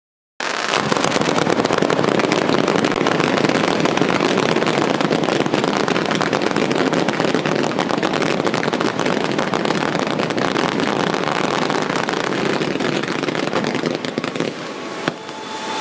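A thousand-shot fireworks barrage going off in a rapid, unbroken crackle of pops. It starts suddenly about half a second in and thins out near the end.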